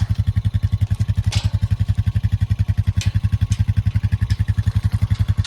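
Engine of a farm vehicle idling with a steady, even low throb, with a few faint clicks and clanks over it.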